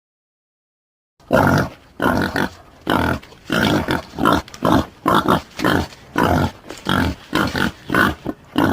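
Boar grunting in a quick series, about two short grunts a second, starting about a second in after silence.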